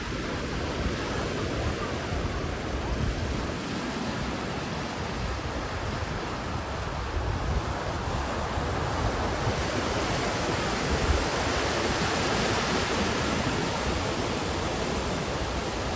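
Ocean surf washing in steadily, with wind rumbling on the microphone; the surf swells a little louder about two-thirds of the way through.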